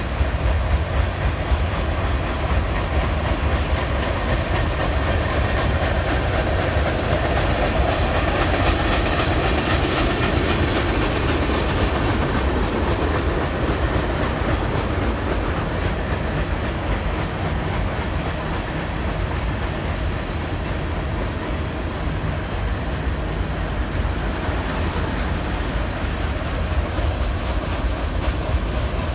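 Train rolling past, its wheels clicking over the rails above a steady low rumble.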